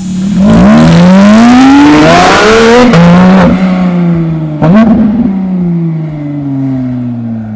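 Porsche 911 GT3 RS (991.2) naturally aspirated 4.0-litre flat-six, breathing through an Akrapovic titanium slip-on exhaust, accelerating hard. The revs climb for about two and a half seconds and drop sharply at a gear change about three seconds in. After another brief jump near five seconds, the note falls steadily away.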